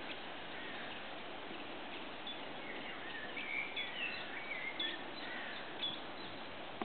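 Birds chirping, a few short high calls and a twittering phrase through the middle, over a steady outdoor hiss.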